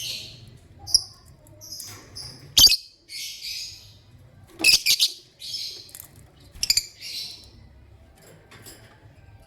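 Lovebirds chirping in short, harsh, buzzy calls, one after another at irregular intervals. A few sharp clicks, the loudest sounds, break in about three, five and seven seconds in.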